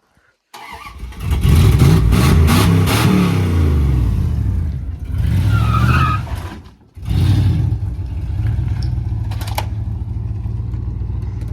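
A vehicle engine comes in about half a second in and is revved hard several times. It cuts out abruptly near the middle, comes straight back, and then runs steadily.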